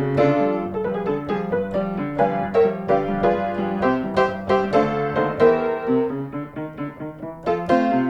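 Background piano music: a lively melody of quick struck notes over a bass line, growing softer briefly near the end before picking up again.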